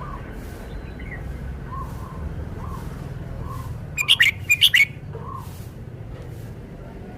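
Red-whiskered bulbul singing one short, loud phrase of quick chirping notes about four seconds in. Faint soft call notes repeat about once a second over a low background rumble.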